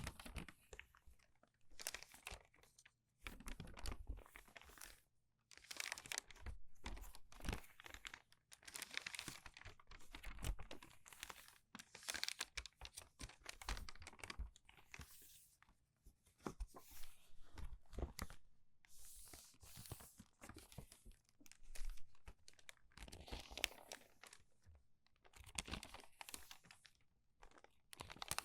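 Crinkled, crumpled paper pages turned quickly one after another, each turn a short crinkly rustle, coming about every second or two with brief pauses between.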